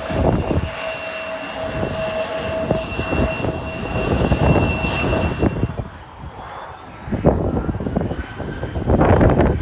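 Mitsubishi CRJ-702ER jet taxiing, its turbofan engines giving a steady high whine, with heavy wind buffeting on the microphone. A little over halfway through the whine cuts off, leaving mostly gusting wind noise.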